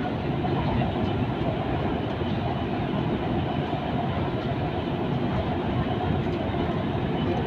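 Steady running noise of a Siemens EMU-A2 BTS Skytrain car in motion, heard from inside the passenger cabin: an even rumble of wheels on rail and running gear.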